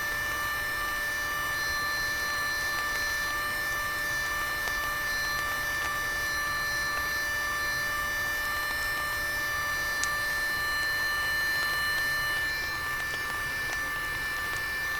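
A steady hum made of several constant tones over an even hiss, unchanging throughout, with one brief click about ten seconds in.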